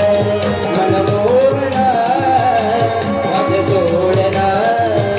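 Folk music: a wavering, gliding melody line over a steady drum beat.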